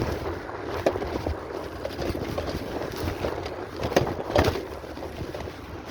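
Uneven low rumble of wind and handling on the microphone, with a few short knocks about a second in and around four seconds in.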